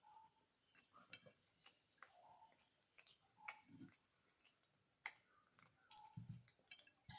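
Faint eating sounds: soft mouth clicks and chewing of beef biryani, with a few scattered small clicks and two soft low thumps, one before the middle and one about six seconds in.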